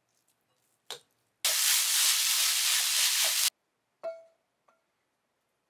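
Rice frying in a hot pan: a loud, even sizzle lasting about two seconds that starts and stops abruptly. It is preceded by a brief scrape and followed by a short clink.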